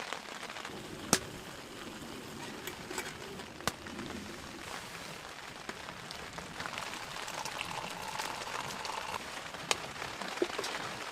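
Steady rain falling on the hot tent's fabric, heard from inside, with a few sharp pops standing out, the loudest about a second in and others near 4 and 10 seconds.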